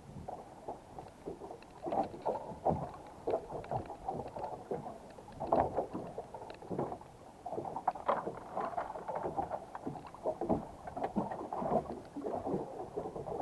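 Water sloshing and lapping irregularly against a small boat's hull, with small knocks and splashes.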